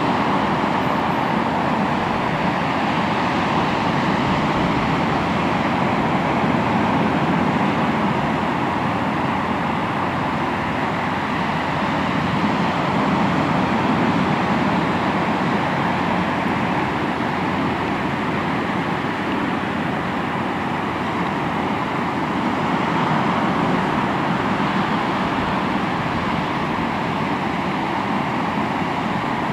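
Sea waves breaking and washing onto the shore in a continuous rush, swelling and easing gently every few seconds.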